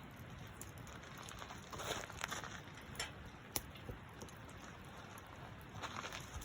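Campfire crackling over a low steady hiss, with a few sharp pops.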